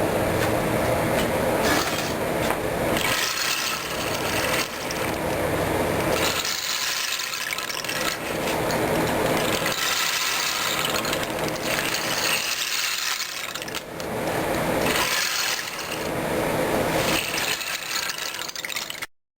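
Homemade snake-gourd rain stick filled with dried beans, tipped back and forth so the beans run through it in a continuous rushing rattle. Each turn starts a new run every two to three seconds, alternating between a heavier, lower rush and a brighter, hissier one. The sound cuts off suddenly near the end.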